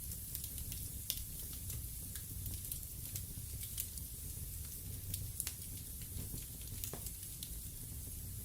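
Wood fire burning in a fireplace: irregular sharp crackles and pops of burning wood over a soft, steady low rumble and hiss.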